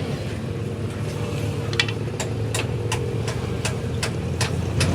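An engine idling steadily under a series of sharp knocks, about two a second, coming more often after the first second or so.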